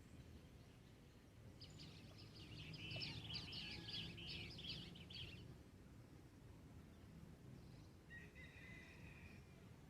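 A songbird singing a quick twittering phrase of rapid high notes about two seconds in, lasting some three seconds, then a shorter call near the end, over a faint steady low rumble of outdoor background noise.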